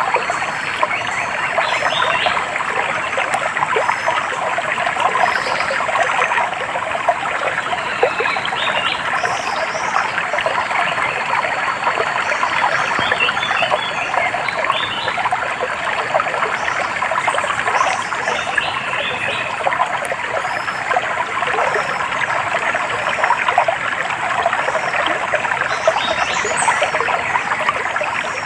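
Shallow stream trickling and babbling steadily, with short high bird chirps scattered over it every few seconds.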